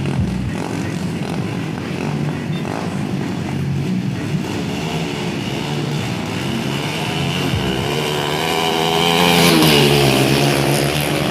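Motorcycle engine running with revs rising and falling. It grows louder about eight seconds in and is loudest near the end.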